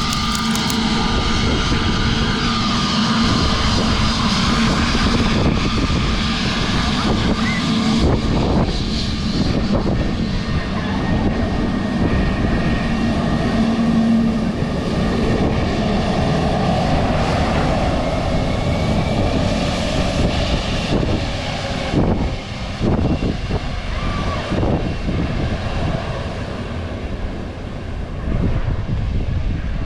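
Airliner engines running loud and steady, a dense rush with a held hum and whine through it. The sound eases a little about two-thirds of the way in and swells again near the end.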